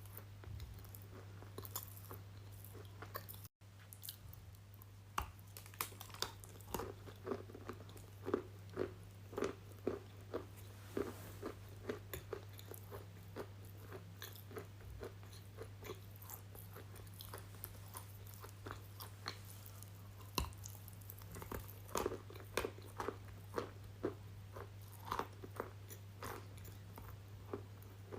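Close-miked crunchy chewing and biting, sharp crisp crunches coming about twice a second at their busiest, over a steady low electrical hum.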